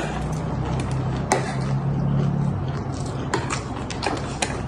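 A steady low hum with sharp clicks over it: one about a second in, then several close together from about three seconds in.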